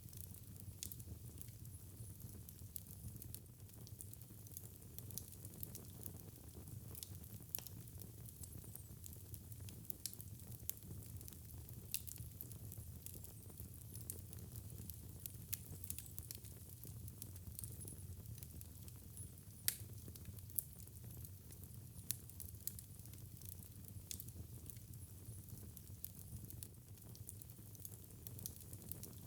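Wood fire burning in a fireplace, crackling with frequent sharp pops over a low, steady rumble of the flames; one louder pop comes about two-thirds of the way in.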